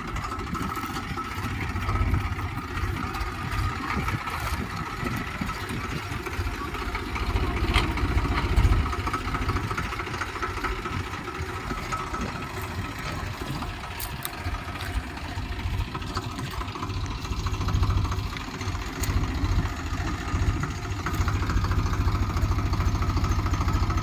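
Swaraj 735 tractor's diesel engine running steadily with a low rumble, a little louder in the last few seconds.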